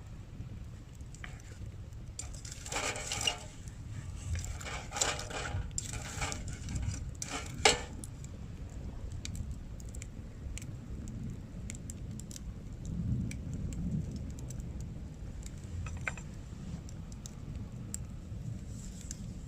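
Light clinking and rattling of small hard objects in the first half, with one sharp knock about eight seconds in, then scattered faint ticks over a steady low rumble.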